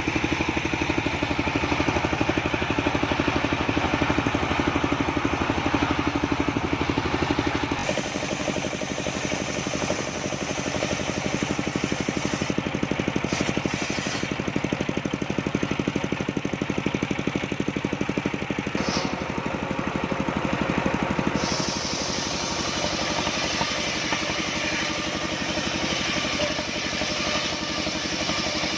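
Engine driving a homemade circular sawmill, running steadily, its sound changing about eight seconds in and again about twenty-one seconds in.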